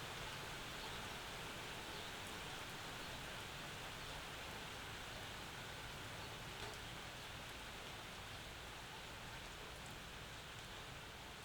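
Steady summer rain falling, an even hiss with a few faint drop ticks, easing slightly toward the end.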